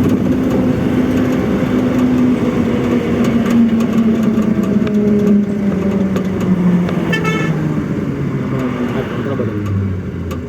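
Truck engine running under way, its pitch falling steadily as the truck slows. A vehicle horn sounds briefly about seven seconds in.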